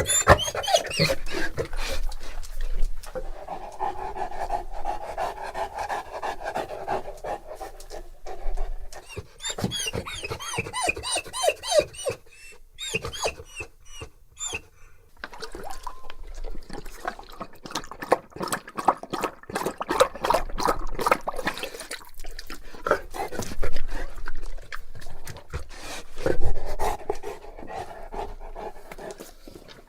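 Bullmastiff panting, with runs of wet clicking mouth and tongue sounds between stretches of breathing.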